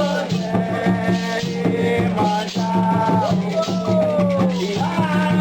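Candomblé ritual music: voices singing a chant with sliding, held notes over steady rhythmic percussion and a shaken rattle.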